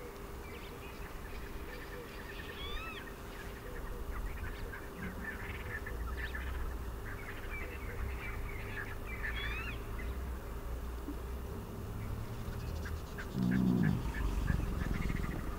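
Wild birds calling on and off, with short calls that glide up and down in pitch. About 13 seconds in comes a louder, low, throaty call.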